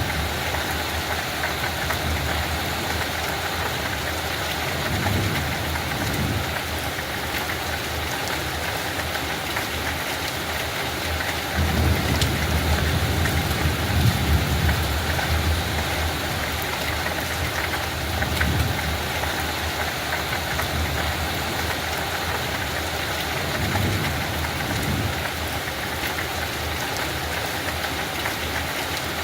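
Steady light rain falling on a field, an even hiss of drops. Low rumbles swell and fade now and then, the longest and loudest lasting a few seconds near the middle.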